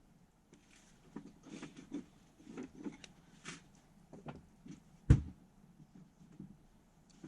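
Wood campfire crackling in irregular snaps, with one louder snap about five seconds in.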